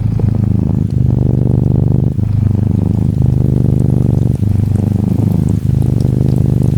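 Norwegian Forest Cat kitten purring steadily, a low pulsing rumble with short breaks about once a second. Gentle rain patters faintly behind it.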